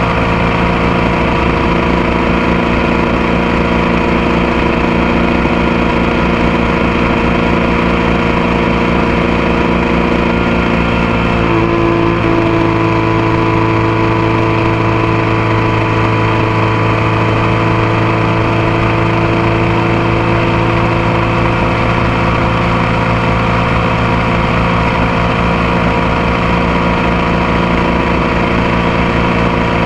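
Motorcycle engine running steadily while riding, heard close up from the passenger foot peg. The engine note shifts slightly about twelve seconds in, then holds steady again.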